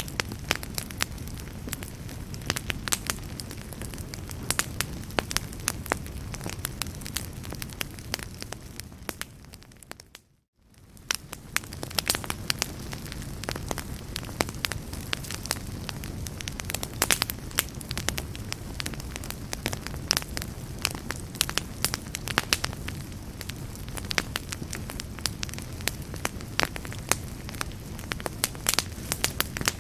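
Wood fire crackling and popping over a low, steady rumble of flames. About ten seconds in, the sound briefly fades out to silence and fades back in.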